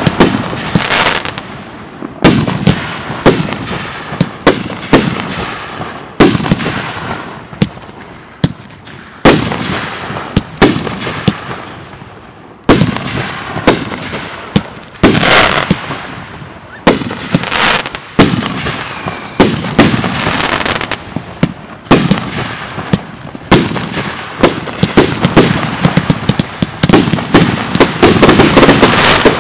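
Aerial fireworks firing and bursting overhead: a rapid, irregular run of sharp bangs, each followed by crackle. A single falling whistle comes a little past halfway, and the bangs and crackle crowd together near the end.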